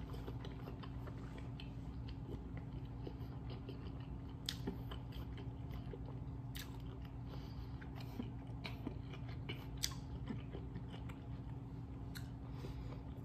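Close-miked chewing of sauced lobster tail meat: soft wet mouth clicks and smacks, with a few sharper clicks scattered through, over a steady low hum.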